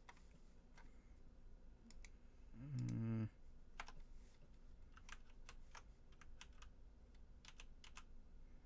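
Scattered, irregular clicks of a computer keyboard being typed on. About three seconds in, a short hummed voice sound rises in pitch and is the loudest thing.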